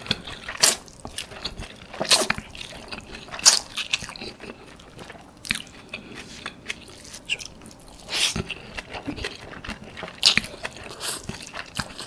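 Close-miked chewing and wet mouth smacking on a mouthful of seafood pad thai noodles, with irregular sharp clicks and squelches.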